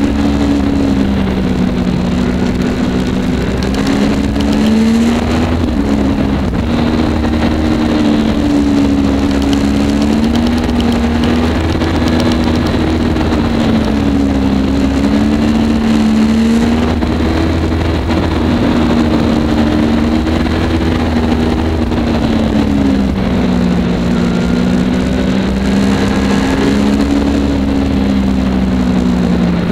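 Yamaha MT-09 three-cylinder motorcycle engine running at road speed, its pitch drifting gently up and down as the throttle is eased and opened through the curves, over a steady rush of wind noise.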